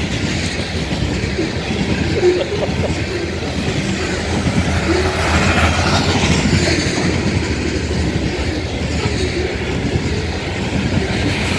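Freight train of open-top coal hopper cars rolling slowly past close by: a steady rumble of steel wheels on the rails, with a few short squeaks.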